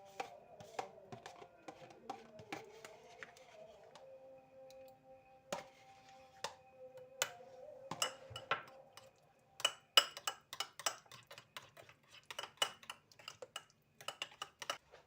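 Clinks and taps of dishes and cutlery over soft background music. The music drops out about midway, leaving a rapid run of sharp clinks.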